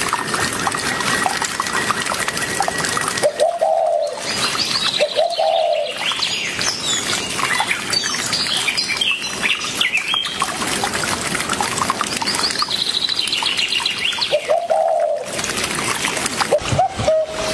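Birds calling, with short mid-pitched calls and runs of high repeated chirps over a steady hiss of background noise.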